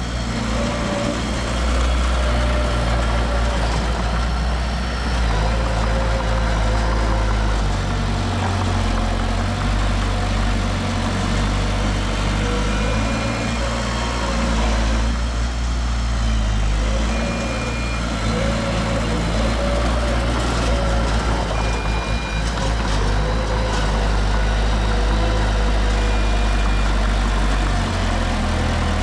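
Heavy diesel construction machinery running steadily with a deep engine hum, with a short high beep every four or five seconds in the second half.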